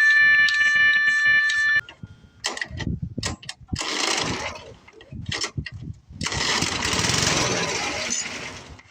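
A short musical sting ends about two seconds in. Then the snowblower's old Tecumseh engine is pulled over and fires twice, briefly and then for a couple of seconds, before fading out and dying: it will run on the fuel given to it by hand, which the owner takes as proof the ignition is good and the carburetor is the problem.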